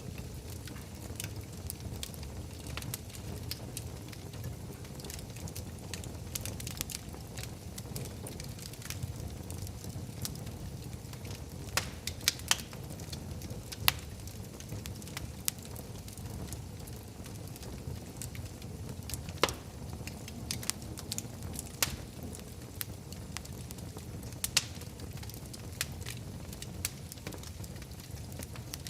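Wood fire burning in a fireplace: a steady low rumble of the flames with scattered crackles and occasional sharper pops.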